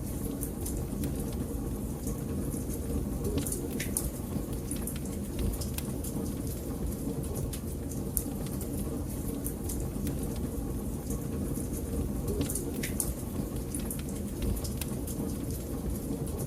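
Fireplace fire crackling: a steady low rumble with frequent, irregular sharp pops and snaps.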